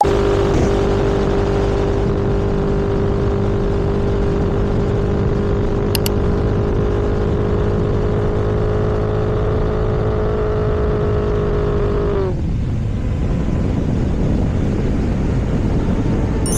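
Vehicle engine running steadily at cruising speed under a heavy rush of wind and road noise, with two short clicks about six seconds in. Near the end, the engine's steady note sags and drops away, as when the throttle is closed.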